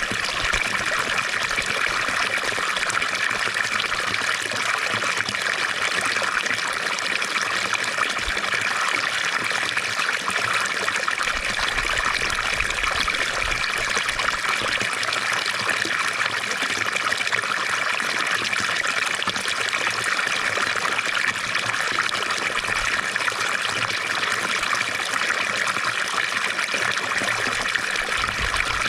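Water from a fountain splashing and trickling in a steady, unbroken flow.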